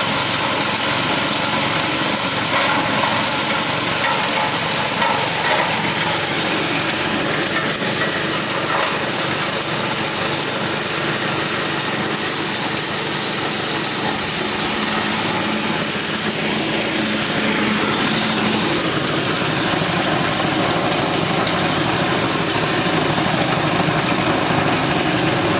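Engine-driven forage chopper running steadily and loudly, a constant dense machine noise.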